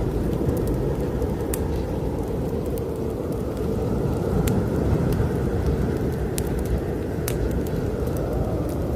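Snowstorm wind blowing steadily with a deep rumble, a gust swelling and easing in the middle, while a wood fire in a fireplace crackles and pops now and then.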